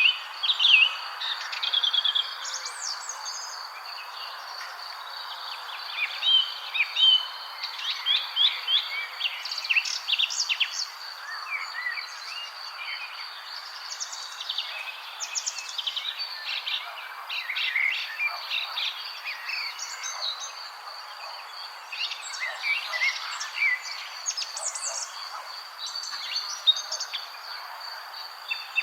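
Many small birds chirping in quick, overlapping calls, over a steady high-pitched whine and a constant background hiss.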